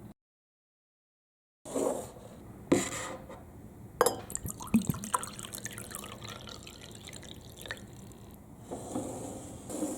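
Water splashing and dripping down a plastic block marble run, with a few sharp clicks and knocks. It starts abruptly after a second or so of dead silence.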